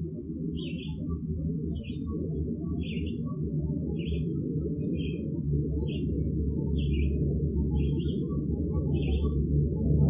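A bird chirping short, repeated notes about once a second over a loud, dense low rumble, which grows steadily louder.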